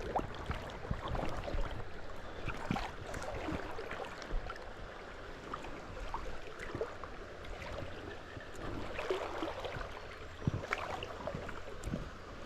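Small shallow stream running, with irregular small splashes and knocks scattered throughout.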